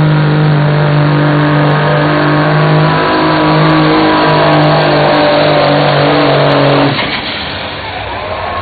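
Single-turbo 1,150-cubic-inch Cummins KTA diesel in a pulling semi running at full throttle under heavy load, its pitch holding steady, then cut back suddenly about seven seconds in as the pull ends.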